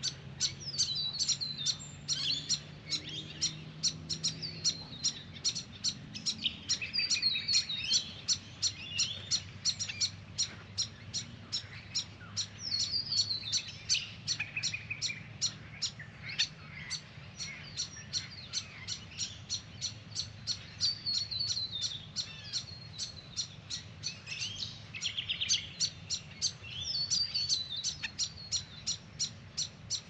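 Small songbirds calling almost continuously: a steady run of short, sharp high chips, several a second, with bursts of quick calls that sweep down in pitch.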